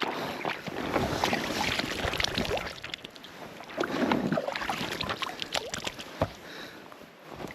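Water splashing and sloshing in uneven surges with small clicks, loudest in the first half and again about four seconds in.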